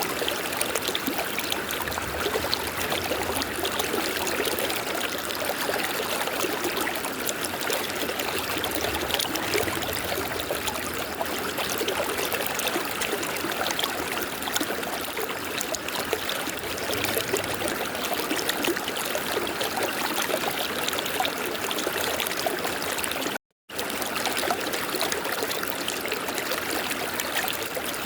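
River water flowing steadily. The sound cuts out completely for a split second about three-quarters of the way through, then carries on.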